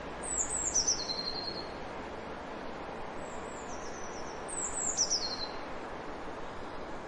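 A small bird singing two high, quick phrases of notes that step down in pitch, the second about three seconds after the first, over a steady background hiss.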